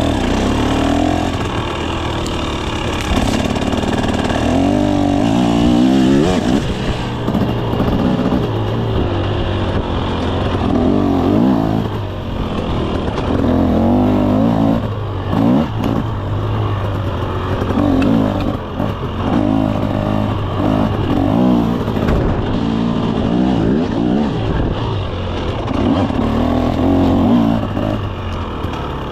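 KTM 300 SX two-stroke single-cylinder dirt bike engine being ridden hard, its revs rising and falling over and over every couple of seconds as the throttle is worked.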